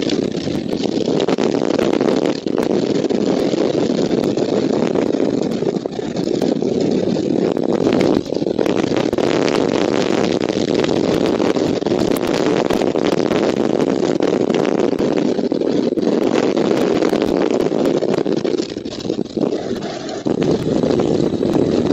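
Strong wind buffeting the nest-camera microphone: a loud, steady rush with brief dips and a short lull near the end.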